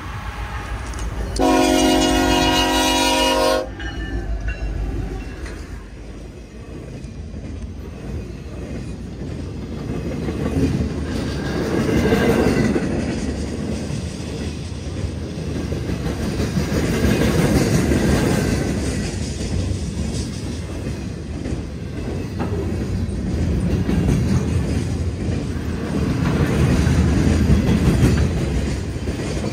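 BNSF SD70ACe diesel locomotive sounding its multi-note horn in one blast of about two seconds near the start as it approaches the crossing. The train then passes at speed: empty wind-turbine flatcars rolling by with steady wheel rumble and clickety-clack that swells and fades.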